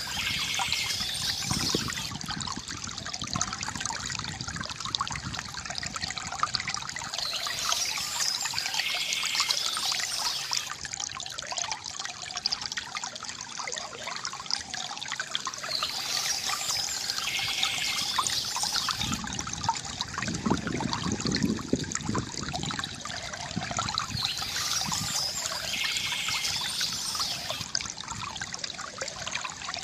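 River water gurgling and trickling steadily, with short bursts of bird chirping that come back at regular intervals, about every eight or nine seconds.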